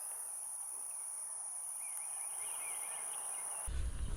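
Wetland ambience: a steady high-pitched insect drone with scattered short bird chirps. Near the end the drone drops out and a low rumble cuts in.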